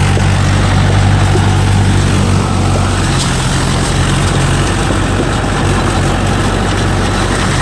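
Swaraj tractor's diesel engine running steadily under load, driving a rotavator in low first gear, with a dense mechanical clatter over the engine note.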